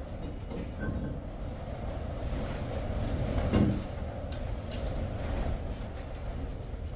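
Brake rotor being handled and fitted back onto the truck's rear hub, with scraping and one louder knock about halfway through.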